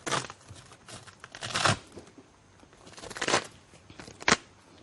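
Four short bursts of rustling, scraping handling noise, spread a second or so apart.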